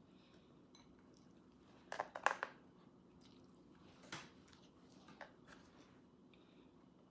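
Close-up eating sounds of a person chewing food picked up by hand: a quick cluster of crackly smacks about two seconds in, the loudest, then smaller ones around four and five seconds, over a faint steady low hum.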